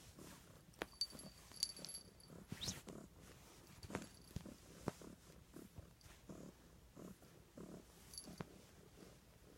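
Pet cat purring close up in a train of soft, low pulses, a few a second, with several sharp clicks and brief high tinkles over it.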